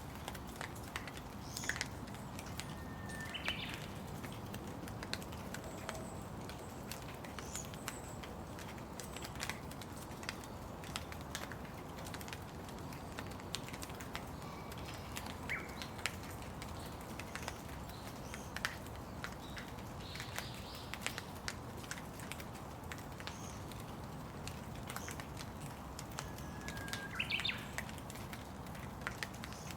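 Steady rain with scattered drops ticking, and birds giving short chirps every few seconds.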